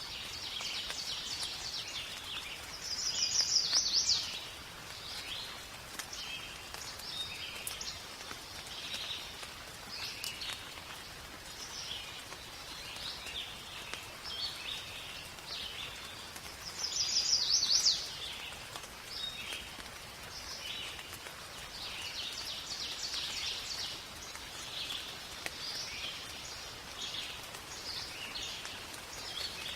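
Many forest birds chirping and singing over a faint steady hiss of rain. Twice, a few seconds in and again about halfway, a louder bird call with rising notes stands out.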